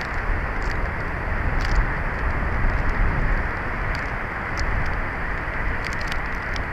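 Strong wind buffeting an outdoor camera microphone: a steady low rumbling rush that swells and eases slightly, with a few faint high ticks and crackles scattered through it.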